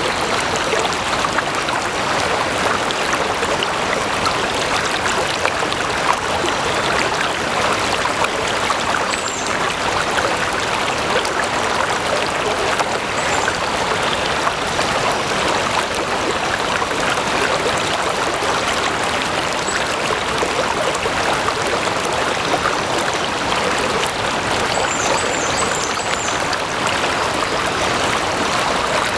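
Stream water flowing steadily, a continuous even babble.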